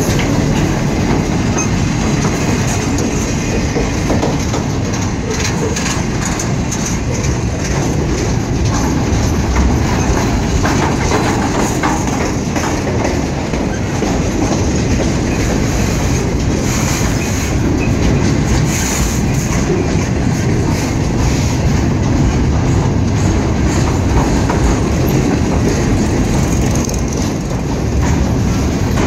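Intermodal freight train's container cars rolling past: a steady rumble of steel wheels on rail with many irregular clicks and knocks.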